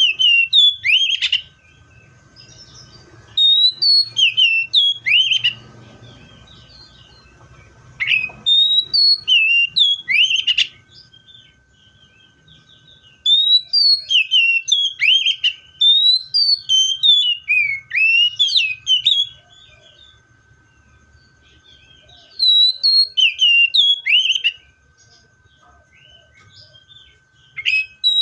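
Magpie-robin singing loud phrases of clear whistled notes that slide up and down, each phrase lasting two to six seconds, with pauses of a few seconds between them.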